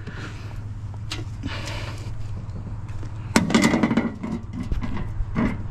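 A heavy piece of scrap being shifted and handled, with a sharp knock about three and a half seconds in and scattered clatter, over a steady low hum.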